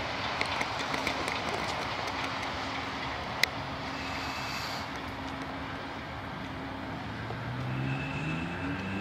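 Steady rumble and hiss of a stopped Amtrak passenger train idling, with a low, even hum, a few light clicks and one sharp click a few seconds in. Near the end a motor's pitch starts rising.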